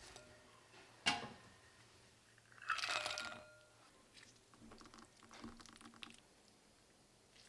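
Utensils and bowls being handled while making cookies: a sharp knock about a second in, then a louder clatter with a brief ringing near three seconds, and soft rustling after.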